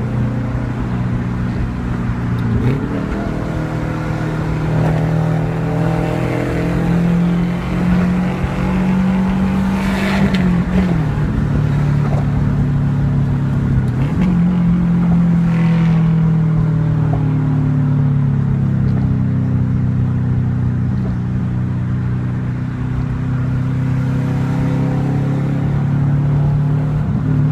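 2002 Subaru Outback's 2.5-litre flat-four, with unequal-length headers and a muffler-delete exhaust, pulling hard in a manual gearbox. The revs climb, then drop sharply at a gear change about ten seconds in. They climb again and drop at a second shift a few seconds later, and the engine then runs at a steady cruise, its pitch easing down slightly.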